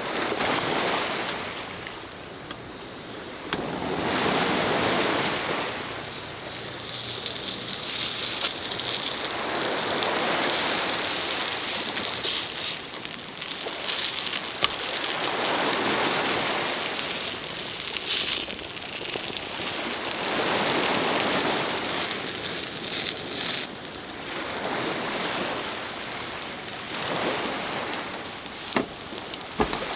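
Sea waves breaking on the shore, each wash swelling and fading about every five seconds, with a few faint sharp ticks between them.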